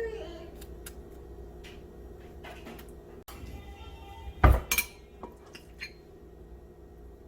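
Kitchen clatter: dishes and utensils clinking and knocking, loudest in a pair of knocks about four and a half seconds in, over quiet background music.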